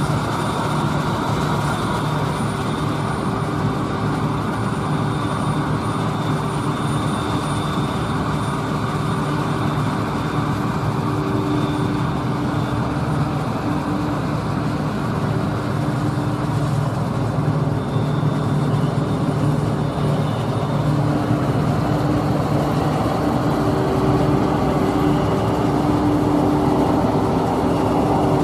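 Diesel engine of heavy harvest machinery running steadily with a constant hum, growing slightly louder in the second half.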